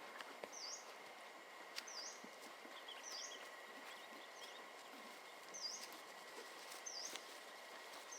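A bird repeating a short high call roughly once a second, each call a quick dip and rise in pitch, with a few fainter chirps in between. Under it runs a faint steady hum, with scattered light clicks.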